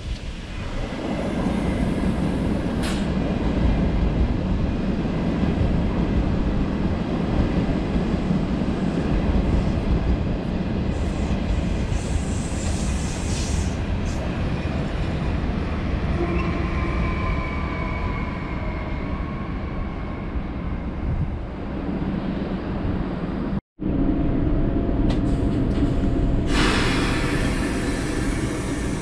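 Trains at a railway station: a train's continuous heavy rumble, with a faint high whine slowly falling in pitch about halfway through. After a brief dropout about three-quarters through, another train's rumble follows, with a loud hiss near the end.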